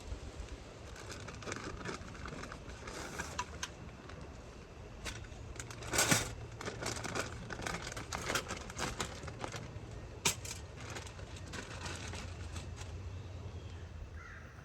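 Camping gear being handled: crinkling and rustling with scattered clicks and knocks, the loudest rustle about six seconds in and a sharp click about four seconds later, over a steady low rumble.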